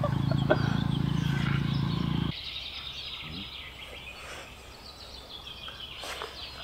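Small birds chirping and singing in the background. A steady low hum under them cuts off abruptly about two seconds in.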